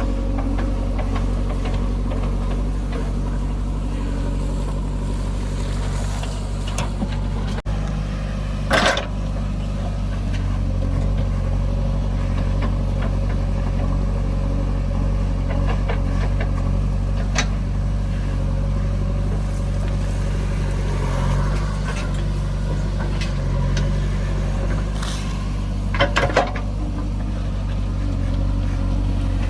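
Backhoe loader's diesel engine running steadily at work. A sharp knock comes about nine seconds in, and a quick cluster of knocks near the end.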